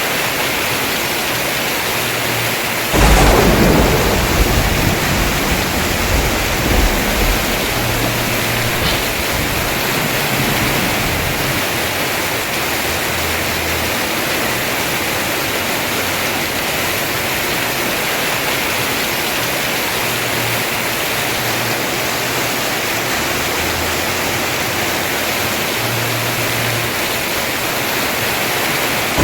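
Heavy rain pouring steadily on a house roof. About three seconds in, a sudden clap of thunder rumbles on for several seconds.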